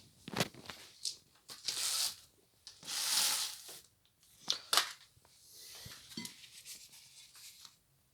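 Packaging being handled and torn open: two longer rustling, tearing bursts about two and three seconds in, among scattered sharp clicks and knocks.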